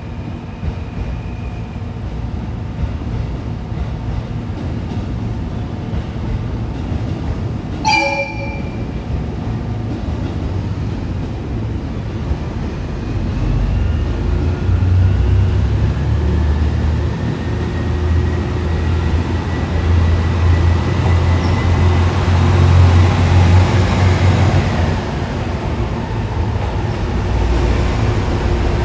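JR East KiHa E130-series diesel railcars idling with a steady low rumble, a short horn toot about eight seconds in, then the engines opening up as the train pulls away. A rising whine builds for about ten seconds before easing off.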